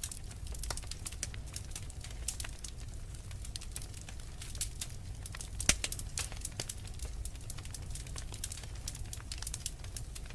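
Wood fire burning in a fireplace, crackling with many small irregular pops over a low steady rumble; one sharper, louder pop a little past halfway.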